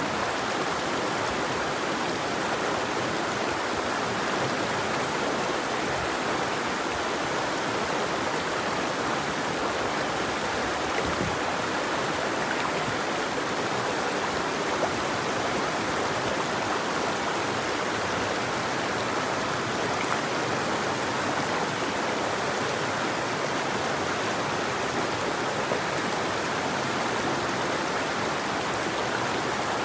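River water flowing in a steady, even rush of running water.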